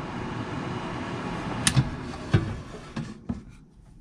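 Air fryer fan running steadily, then a few sharp clicks and a heavier clunk as the basket is pulled out, and the fan noise dies away.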